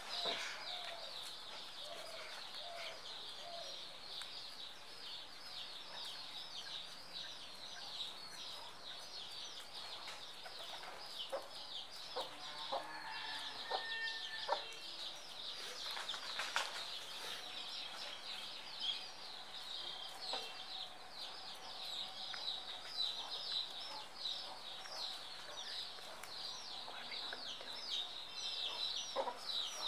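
Many birds chirping at once in a steady, dense high chatter, with a few lower calls near the middle.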